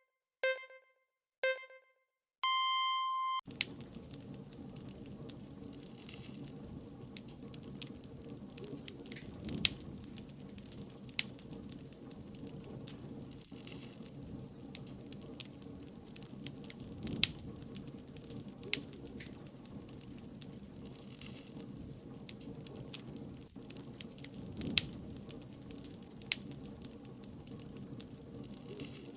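Countdown start signal of two short beeps and a longer, higher beep. A wood fire then crackles steadily, with frequent sharp pops.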